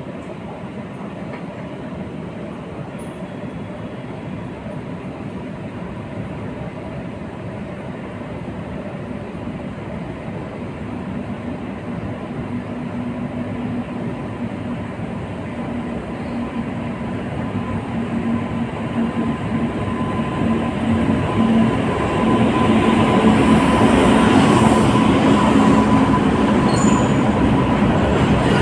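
Train running on the rails, a steady rumble that grows gradually louder over the first twenty seconds or so and then holds, with a faint steady tone running through it.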